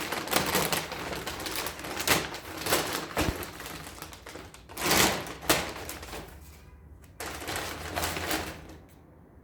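Takeaway food packaging being handled and unpacked, rustling with many sharp clicks and knocks, loudest about halfway through.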